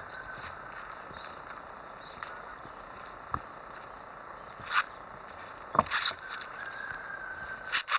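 Steady outdoor summer ambience with insects buzzing. A few short rustles and knocks come about halfway through and near the end.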